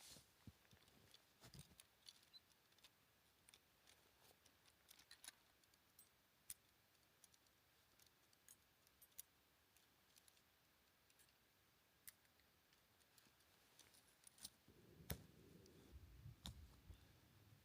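Faint, scattered sharp clicks and small metallic clinks of ice crampons being handled and fitted to boots. Near the end comes a low scuffing sound.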